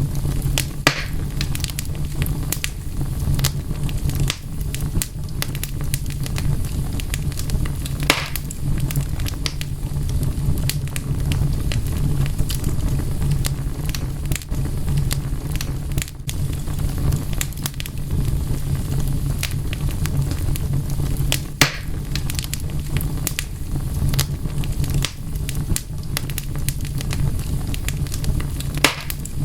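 Wood fire crackling steadily over a low rumble, with scattered sharp pops, a few of them louder.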